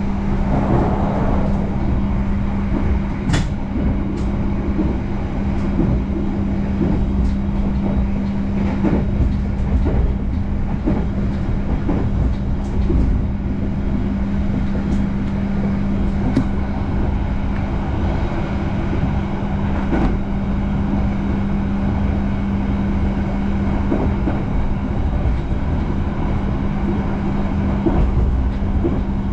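Running noise heard inside a moving Argo Bromo Anggrek express train carriage: a steady rumble with a constant low hum, and occasional short sharp clicks from the wheels on the track.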